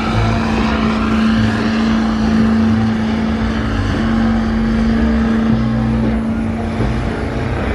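Loud, steady engine drone with a constant hum and a shifting low rumble underneath.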